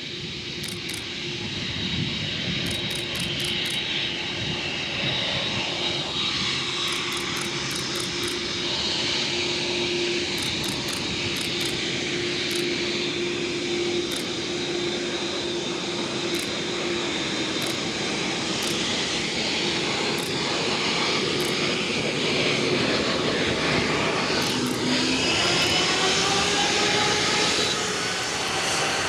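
Boeing 747-8F freighter's GEnx jet engines running with a steady hum and whine. Near the end several tones rise together in pitch as the engines spool up.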